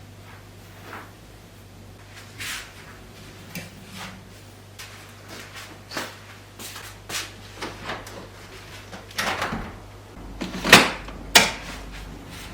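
Kitchen cabinet doors, drawers and utensils being handled: a string of scattered light clicks and knocks, with two sharper knocks near the end.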